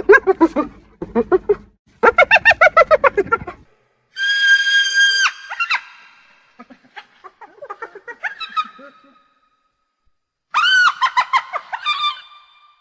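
Hyena laughing calls: fast runs of short, pulsed giggling notes for the first few seconds, then a long high-pitched squeal about four seconds in and another near the end, with quieter chattering calls between.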